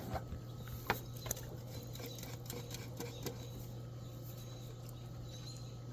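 Faint, irregular small clicks and taps over a steady low hum, with a couple of sharper clicks near the start and about a second in.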